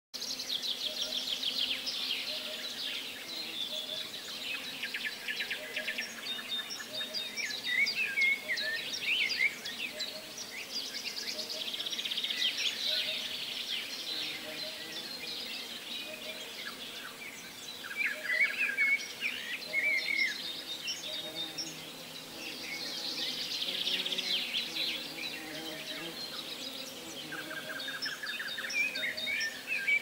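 Several songbirds singing in the park trees: overlapping quick chirps, rapid trills and short whistled phrases, on and off throughout.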